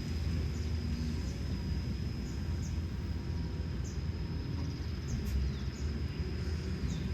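Kobelco SK210LC excavator's Hino J05E-TG diesel engine running steadily with a low rumble and a faint steady high whine. Birds chirp over it with short falling calls every second or so.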